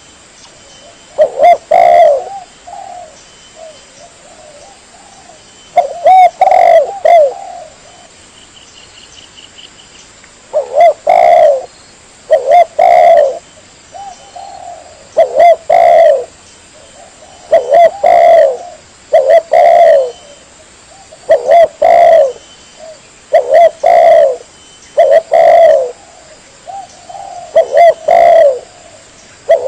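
Spotted dove (tekukur) cooing: loud, repeated low coo phrases every one to two seconds, with a brief lull about a third of the way in. This is the dove's call played as a lure to draw in other doves.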